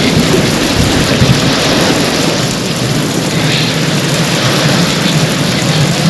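Heavy rain pouring steadily, with a continuous low rumble under the hiss.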